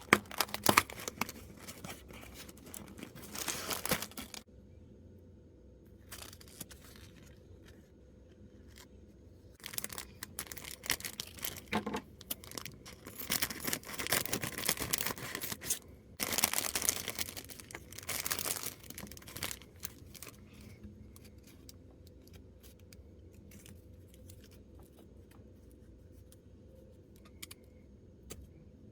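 Packaging of a miniature set being torn open and crinkled by hand, in repeated bursts over the first twenty seconds, then only light scattered clicks and rustles.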